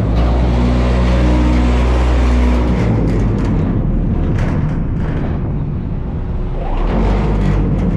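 Dump truck body vibrator humming steadily, then shutting off a little under three seconds in, leaving the truck's engine running, with a rising whine near the end.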